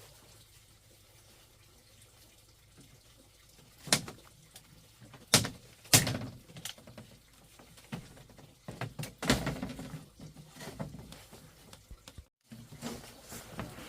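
A handful of sharp knocks and thuds with lighter clatter between them. The loudest come about four, five and six seconds in, and another about nine seconds in.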